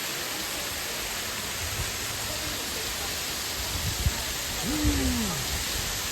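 Waterfall rushing steadily, with low thumps on the microphone in the second half.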